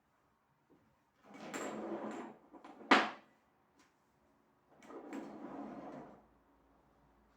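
Two scraping, sliding sounds of about a second each, with a single sharp knock between them about three seconds in, like a drawer or cupboard being slid and knocked.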